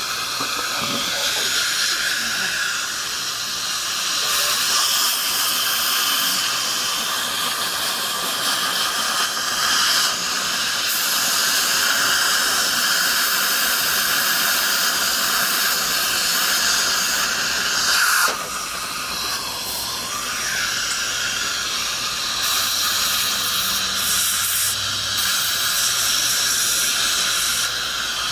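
Dental equipment hissing steadily during a tooth restoration, with a brief louder burst about eighteen seconds in.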